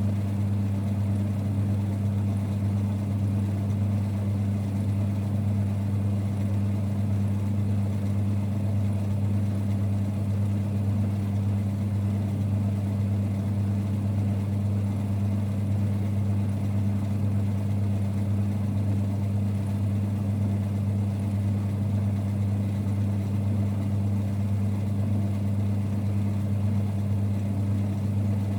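1946 Boxford lathe running, a steady low rumble with a strong hum that holds the same pitch and level throughout.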